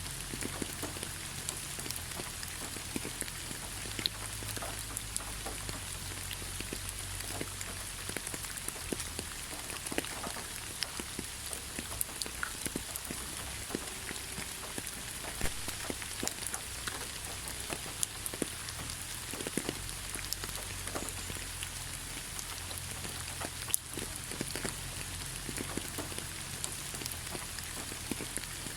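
Steady rain falling, with many separate drop hits scattered irregularly through an even hiss.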